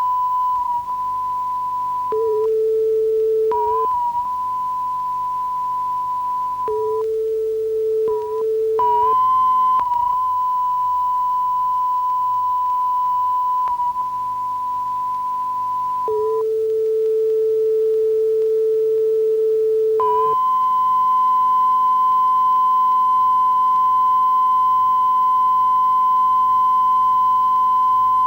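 Television test tones off air: a steady pure line-up tone that cuts abruptly to a lower steady tone and back three times, then holds the higher tone unbroken for the last eight seconds.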